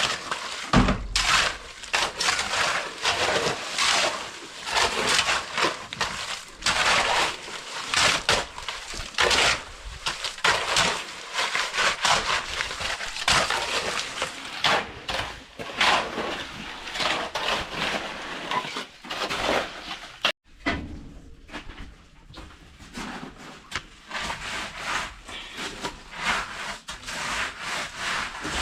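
A hand tool scraping back and forth over a rough surface in repeated strokes, roughly one to two a second, with a sudden brief break about 20 seconds in.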